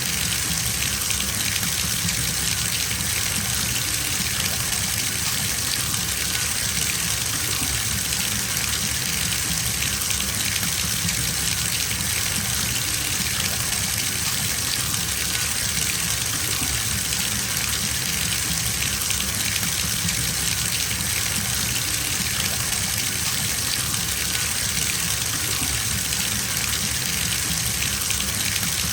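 Bathtub filling from its tap: a steady, unbroken gush of water pouring into the tub.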